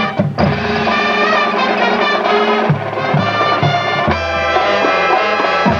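High school marching band playing. A few drum hits at the start, then the brass and full band come in on long held chords over a sustained bass, moving to new chords twice.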